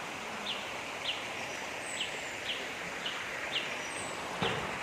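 Forest ambience: a steady even hiss with short high bird chirps repeating about twice a second, and a few faint, very high descending whistles.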